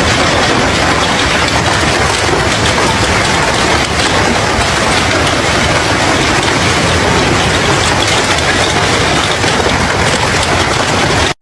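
Heavy rainstorm: a loud, steady rushing hiss with a low rumble underneath.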